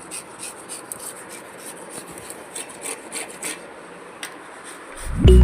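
Repeated short scraping and rubbing strokes, with loud music starting near the end.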